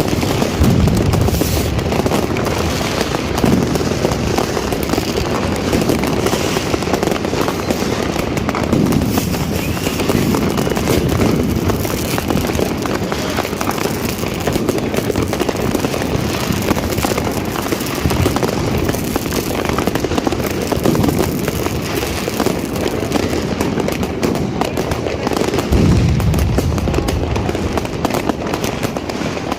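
New Year's fireworks and firecrackers going off without pause: a dense crackle of many bangs, with deeper booms now and then, loudest about a second in and near the end.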